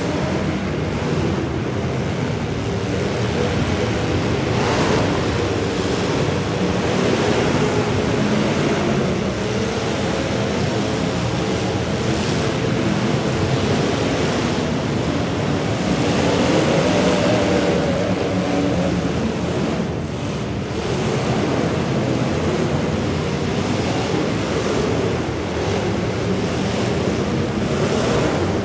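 Demolition derby cars' engines running and revving hard, with a wash of loud mechanical noise and an occasional crunch of impact.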